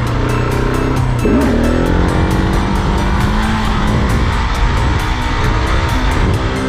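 Supermoto motorcycle engine under throttle: the revs climb sharply about a second in, hold high for a few seconds, then fall away near the end.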